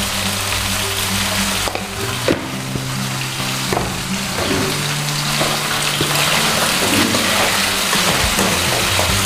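Chicken and fried potato pieces sizzling steadily in hot oil in a kadai, with a few light knocks and scrapes as the pan is stirred.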